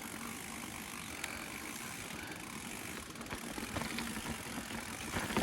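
Mountain bike being ridden over a wet rocky trail: steady rolling and rattling noise with a few light clicks.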